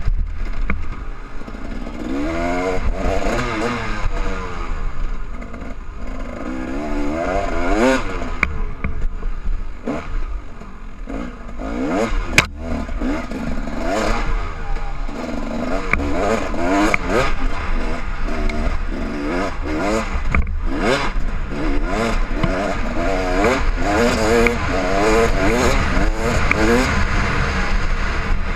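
KTM enduro motorcycle engine, heard from the rider's helmet, revving up and down over and over as the bike is ridden hard over rough ground. A single sharp knock stands out a little past the middle.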